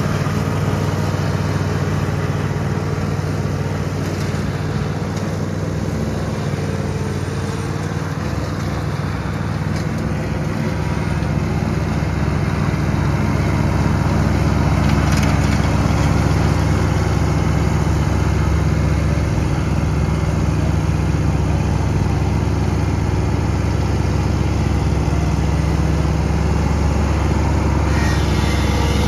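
John Deere Z320R zero-turn mower's engine running steadily, getting slightly louder about halfway through.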